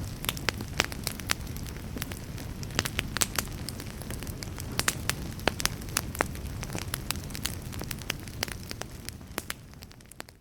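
Wood fire crackling in a fireplace: irregular sharp pops and snaps over a low, steady rumble of flames, fading down near the end.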